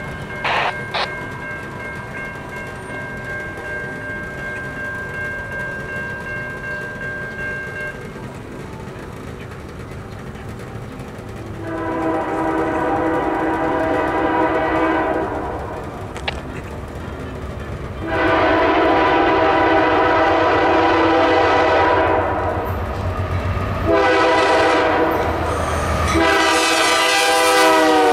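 Diesel freight locomotive horn sounding the grade-crossing pattern: two long blasts, a shorter one, and a final long blast that drops in pitch as the lead engine passes, over the rumble of the approaching diesel locomotives.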